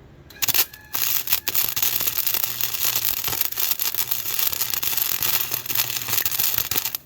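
MIG welding arc crackling and hissing as a bead is laid on the underside of a cracked steel go-kart frame. Two short starts, then one continuous weld of about six seconds that stops abruptly near the end.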